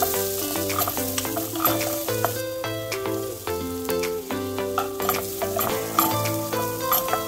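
Onion and capsicum sizzling in oil in a non-stick wok, with a spatula stirring and scraping against the pan in quick, irregular clicks. Light background music with stepping melody notes plays alongside.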